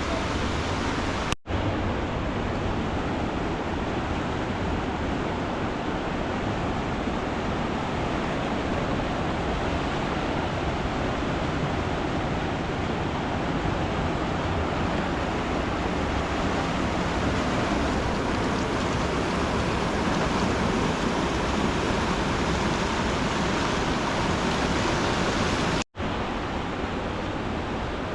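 Steady rushing water, an even noise with no distinct events, broken by two very brief cut-outs, one about a second and a half in and one near the end.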